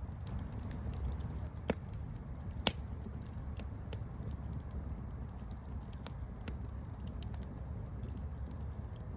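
Campfire burning with a steady low rumble and scattered sharp crackles, two louder pops about two and three seconds in.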